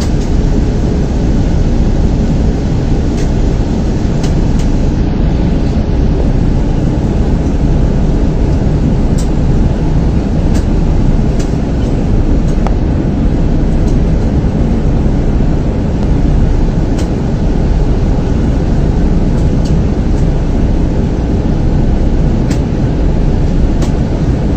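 Steady, deep roar of an airliner cabin in flight: engine and airflow noise that stays even throughout, with a few faint clicks. The plane is on its approach for landing.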